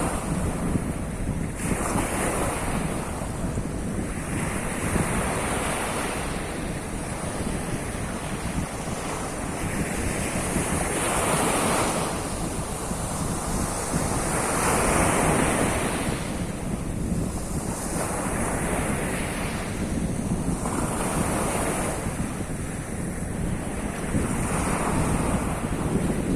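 Sea surf on the Sea of Azov shore, waves breaking and washing in every few seconds, with wind buffeting the microphone.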